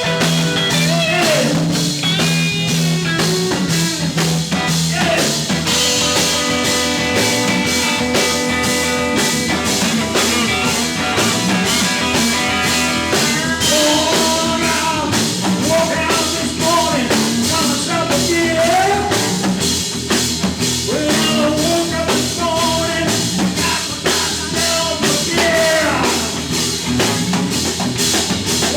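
Live blues-rock band playing an instrumental stretch of a song: a drum kit keeps a steady beat under a bending lead line.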